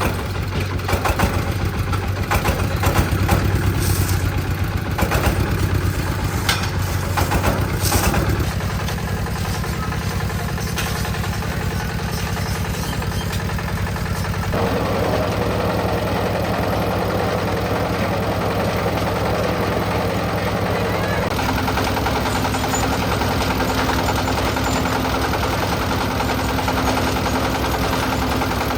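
An engine running steadily, with irregular knocks and clatter over the first eight seconds or so. Its tone shifts a few times, about a third of the way in, around halfway and again later.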